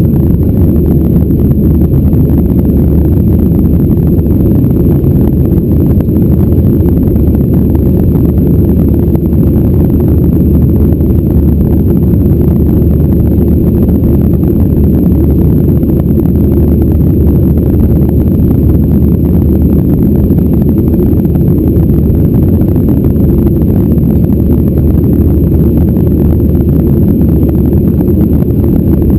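Boeing 737-800's CFM56-7B jet engines and rushing air, a steady, loud, low roar heard inside the airliner's cabin as it climbs after takeoff.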